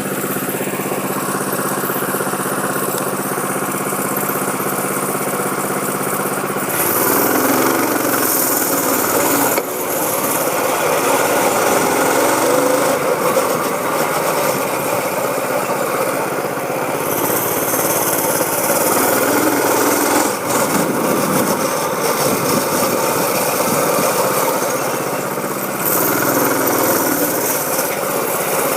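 Small dirt bike engine running, steady at first, then being ridden from about seven seconds in, its note shifting up and down. Three stretches of loud hiss come and go over it.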